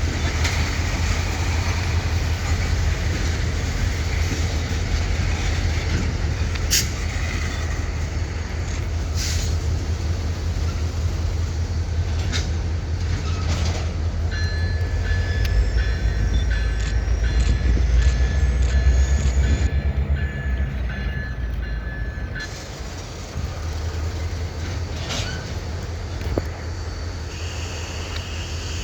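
EMD diesel locomotives working a freight train: a steady low engine drone that swells in the middle, with sharp clanks and knocks from the cars and couplers. In the middle, a high pulsing ringing tone and a faint rising whine join in for several seconds.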